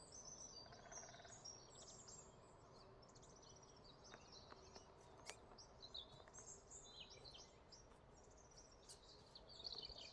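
Faint outdoor birdsong: several small birds chirping and trilling, with a few faint clicks in between.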